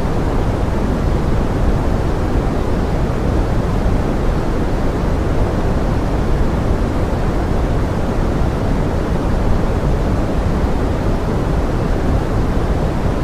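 Steady pink noise blended with forest rain: an even, unbroken rushing hiss, heaviest in the low end, with no distinct drops or events.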